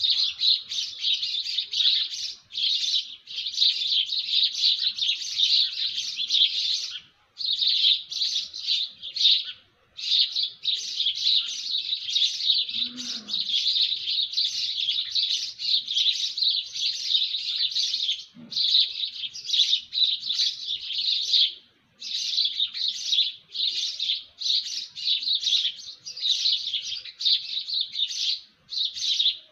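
Many small birds chirping together in a dense, rapid chorus, with a few brief pauses.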